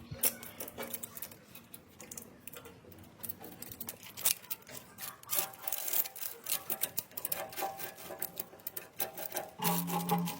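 Irregular scraping and rubbing strokes in quick succession, with a short low hum near the end.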